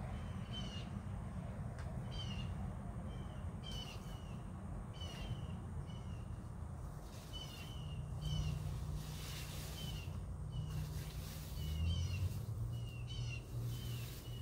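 A bird calling over and over, short calls roughly once a second at irregular intervals, over a steady low rumble.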